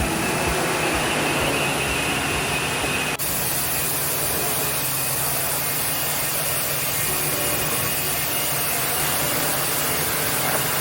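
Steady mechanical noise with a low hum underneath, changing abruptly about three seconds in.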